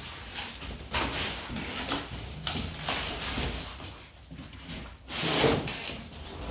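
Cardboard box being opened and its packaging handled: rubbing and scraping with short knocks, and one louder rasp about five seconds in.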